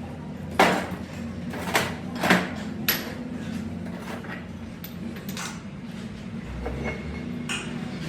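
Sharp metal knocks and clinks, about six at irregular intervals and most of them in the first three seconds, over a steady machine hum.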